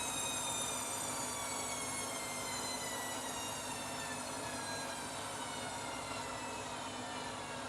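Washing machine motor whine falling slowly and steadily in pitch as the drum slows down from a spin, over the rumble of the turning drum.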